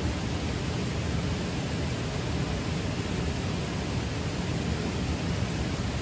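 Steady, even rushing of water with no breaks, heavy in the low end.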